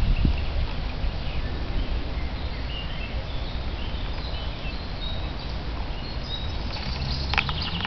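Small birds chirping in the trees with short high notes, and a quick run of notes about seven seconds in, over a steady low rumble.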